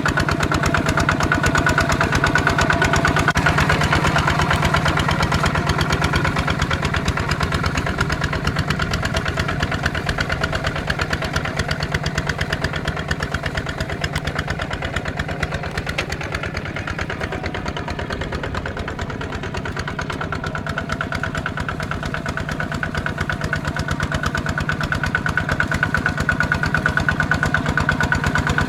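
Kubota ZT155 single-cylinder diesel engine of a walking tractor running steadily with an even, rapid chugging, easing off slightly about halfway through and picking up again near the end.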